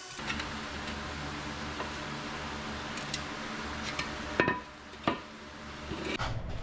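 A few light clicks and one sharper, ringing clink about four and a half seconds in, as of hard objects being handled and set down, over a steady low hum.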